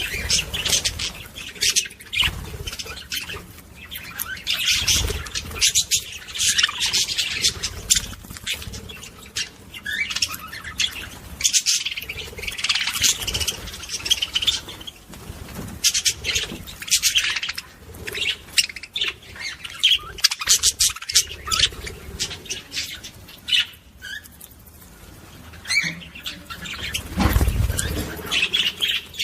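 Lovebirds chattering in bursts of rapid, shrill chirps and squawks, easing off for a couple of seconds late on. A low thump of noise comes in near the end.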